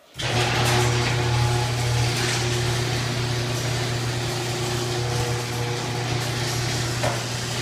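Electric garage door opener motor starting abruptly and then running with a steady low hum as it raises the door. The opener works now that it has been warmed with a blow dryer after failing in the cold.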